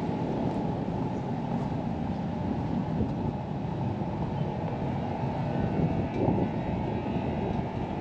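Steady low rumbling outdoor noise, with a faint higher tone coming in during the second half.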